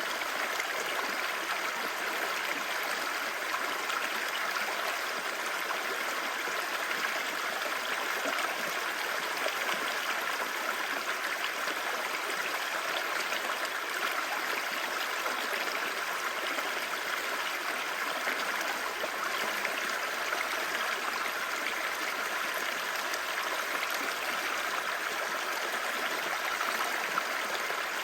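Clear stream babbling steadily, an even rush of running water.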